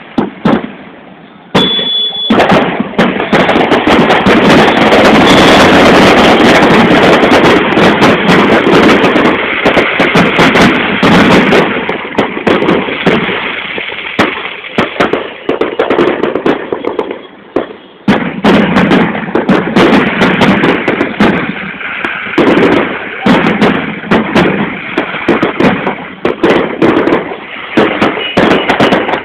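A fireworks display going off continuously, with many sharp bangs and crackles in quick succession over a dense, steady din.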